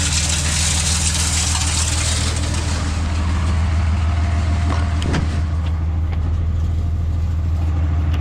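Plow truck's engine idling steadily, with a hiss over it that fades away after about two and a half seconds.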